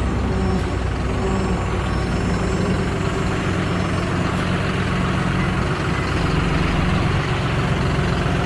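Heavy farm-vehicle engine running steadily at an even, low pitch, as when a loader works sawdust into the stalls.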